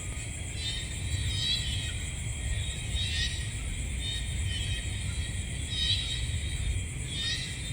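Night insect chorus: a steady high-pitched chorus with a louder call repeating every second or two, over a low rumble.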